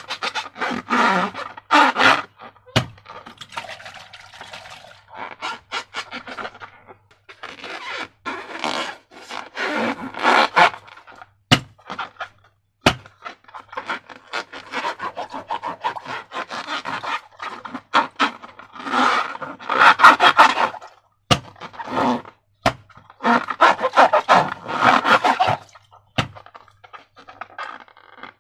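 Slime being worked by hand: repeated wet squishing and scraping strokes, each lasting a second or two, with a few sharp clicks between them.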